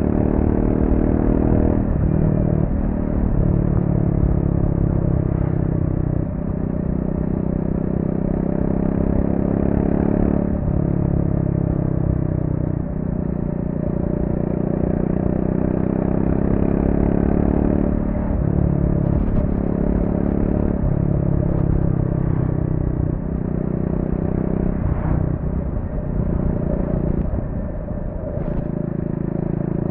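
Triumph Speed 400's single-cylinder engine on its stock exhaust, under way. Its note steps up and down in pitch every few seconds as the throttle and gears change through corners.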